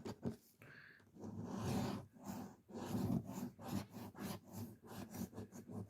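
Scratch-off lottery ticket being scratched, a run of short, quick scraping strokes that starts about a second in.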